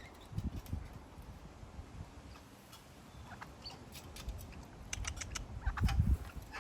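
Irregular light clicks and taps from king parrots feeding at a pile of seed, pecking and shuffling, thickest near the end, with a few low bumps.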